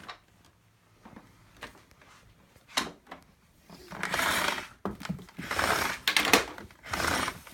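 Power cord being pulled out of a vacuum cleaner's cord-rewind reel: a few light clicks, then four rasping pulls in the second half.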